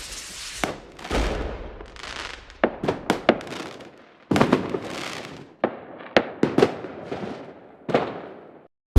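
Aerial fireworks going off: a quick irregular series of sharp bangs and a few deeper booms, each trailing off in a brief hiss. The sound cuts off abruptly near the end.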